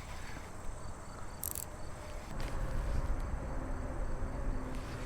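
Insects chirring steadily in a high, thin tone over a low outdoor rumble, with a brief hiss about a second and a half in.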